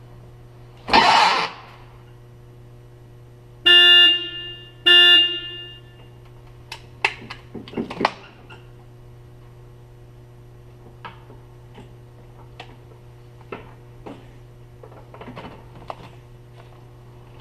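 Lift truck horn giving two short honks about a second apart, after a brief hissing burst. Scattered light clicks and knocks follow, over a steady low hum.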